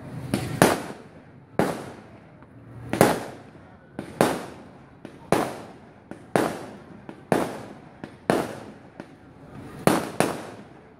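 Aerial fireworks bursting in the sky: a rapid series of sharp bangs, roughly one a second, each followed by a short fading rumble.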